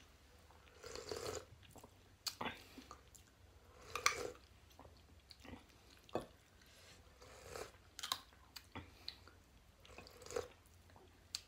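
Close-up chewing and eating mouth sounds from people eating a meal of rice, pork and vegetables, with irregular short clicks, smacks and occasional crunches.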